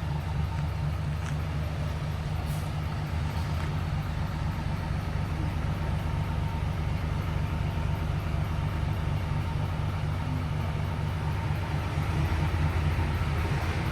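Isuzu Forward truck's diesel engine with a split exhaust manifold (mani-wari) idling steadily with a deep, low exhaust rumble, getting a little louder near the end.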